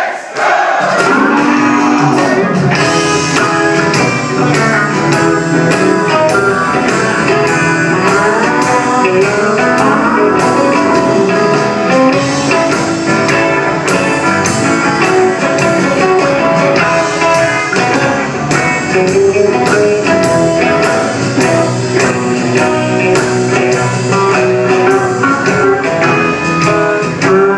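Live country-rock band playing an instrumental break: lead guitar over bass and drums with a steady beat.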